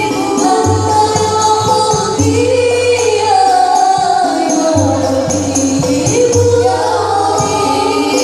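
Sholawat devotional music: a group of voices singing a flowing melody over steady percussion with a jingling tambourine.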